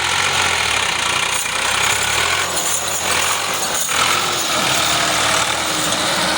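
Diesel engine of a Doosan DX140 excavator running steadily under working load, with metallic rattling and a couple of sharp clanks.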